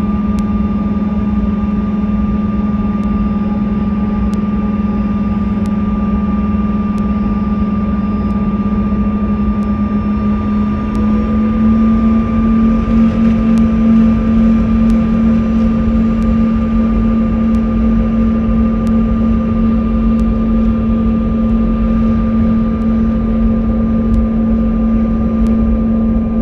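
Cabin noise inside a Canadair regional jet taxiing: the steady drone of its twin rear-mounted turbofan engines, with a strong low hum and a fainter high whine. About eleven seconds in, the engine pitch rises slightly and the sound gets a little louder. Faint ticks come about once a second throughout.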